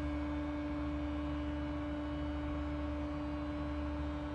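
Steady machinery drone from a drilling operation: a constant low rumble with a steady humming tone on top, about 60 dBA, which the residents take for pumping.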